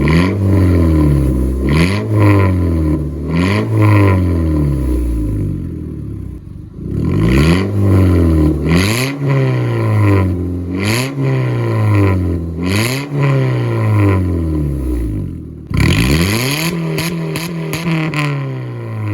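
Honda Civic engine with its muffler and resonator cut off, blipped up and down again and again, a short rev about every two seconds, with a brief lull about six seconds in and a longer held rev near the end.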